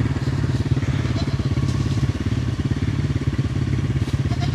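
Quad bike (ATV) engine running steadily at cruising speed, with a fast, even chug.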